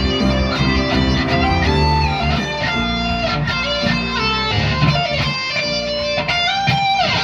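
Guitar instrumental: an electric guitar melody with bent notes over sustained chords and low bass notes, closing with a downward slide near the end.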